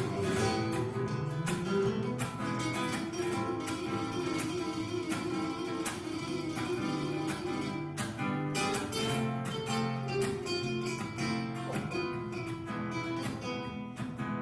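Background music: acoustic guitar played with strummed chords and quick plucked notes in a flamenco-like style.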